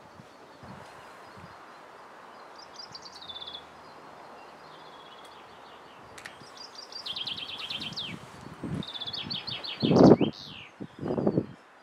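A songbird singing repeated short, fast trilled phrases over a steady outdoor hush, with a quick falling whistle after about ten seconds. Two short, louder dull noises come near the end.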